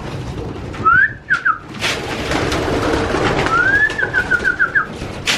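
Young racing pigeons cooing in a loft, with scattered sharp knocks. Twice, about a second in and again past three seconds, a high whistle-like call rises and breaks into a quick run of short chirps.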